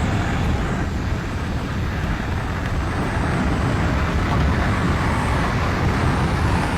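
Steady loud rush of wind, heaviest in the low end, typical of air blasting past a skydiver's microphone in freefall.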